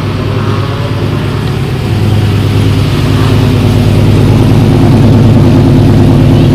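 Car engine running with a steady low drone that grows gradually louder.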